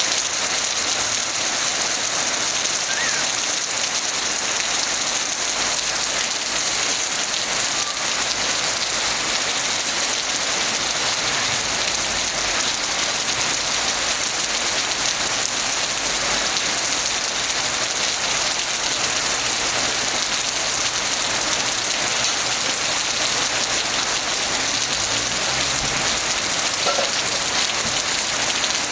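Heavy downpour: a steady, even hiss of rain falling hard on surfaces.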